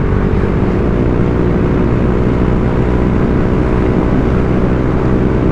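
Honda Vario 125 scooter's single-cylinder engine running through an aftermarket racing-style exhaust while riding at light, steady throttle, with an even, mellow exhaust note that does not rise or fall.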